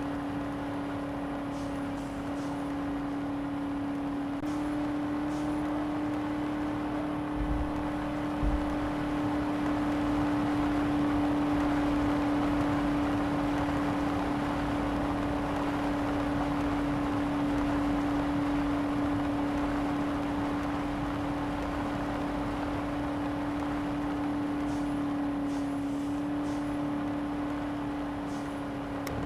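Mahindra Bolero SUV fitted with tractor tyres, driving at a steady pace: a constant humming drone over road and tyre noise. The noise grows louder around the middle.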